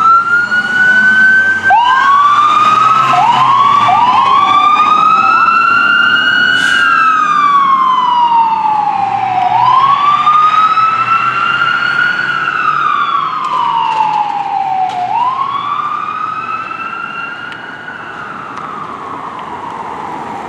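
Fire apparatus sirens wailing in slow rising and falling sweeps, with a second siren's sweeps overlapping a few seconds in; they grow fainter near the end as the trucks pull away.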